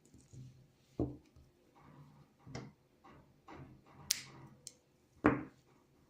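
Irregular knocks and clicks of small objects being handled and set down, about eight in all. The loudest knocks come about a second in and near the end, with a sharp, bright click just after the middle.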